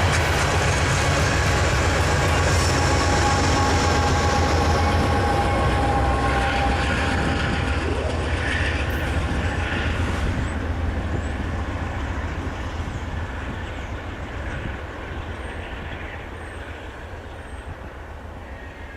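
A train rolling by with a steady low rumble and wheel noise, loud at first, then fading away over the second half as it moves off.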